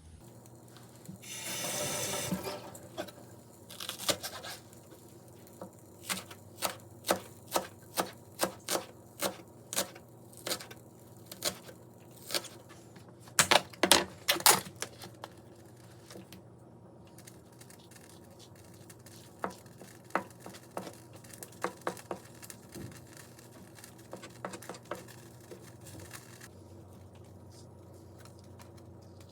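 Kitchen food-preparation sounds: a brief rustle, then a regular run of sharp taps about two a second, a louder flurry of taps around the middle, and scattered taps later on.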